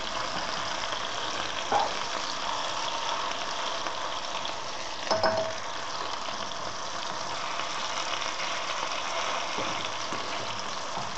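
Hake fish cutlets sizzling as they fry in a skillet over a gas flame turned higher than medium, a steady frying hiss. A couple of short knocks, likely a fork against the pan, are heard under two seconds in and more loudly about five seconds in.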